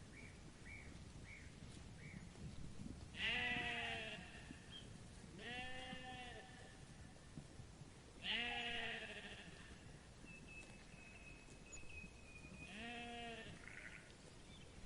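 A sheep bleating four times, each call about a second long with a quavering, wavering pitch. Faint short chirps come in the first couple of seconds, and a thin high whistle is heard before the last bleat.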